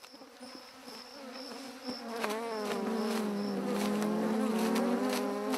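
Agitated honeybee swarm buzzing around an opened hive, a steady drone that swells louder from about two seconds in. A faint high chirp repeats about twice a second through the first half.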